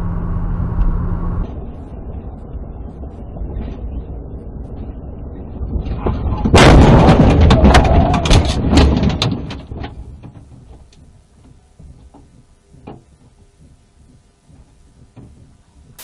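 A car crash: driving noise, then about six and a half seconds in a sudden loud collision with a rapid run of crunching impacts for about three seconds, dying away into scattered rattles and clicks of debris.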